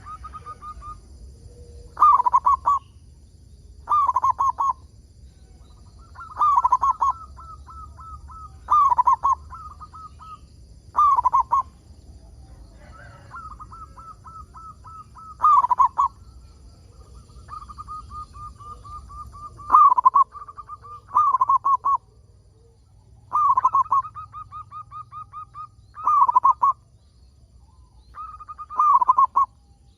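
Zebra dove (perkutut) cooing: loud short phrases about every two seconds, with quieter runs of quick, evenly spaced notes between them.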